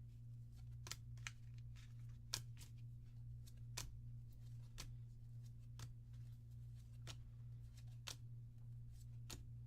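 Trading cards from a Force of Will booster pack being flipped through by hand one at a time: faint clicks and snaps about once a second, over a steady low hum.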